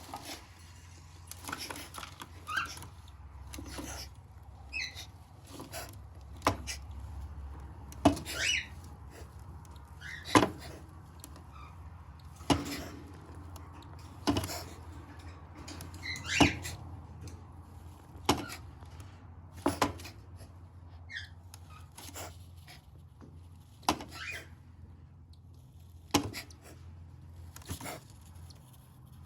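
Faint short chirps, like the peeping of newly hatched cockatiel chicks, among sharp clicks or knocks that come about every two seconds, over a low steady hum.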